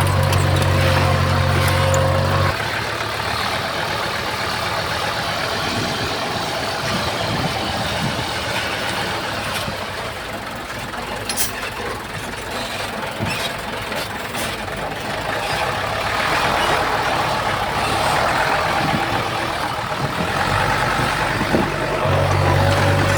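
Diesel engines of heavy earthmoving machinery and dump trucks running. A deep, steady idle drone sounds at the start, stops abruptly about two and a half seconds in, and returns near the end; in between a rougher, quieter engine noise carries on with a few sharp clanks.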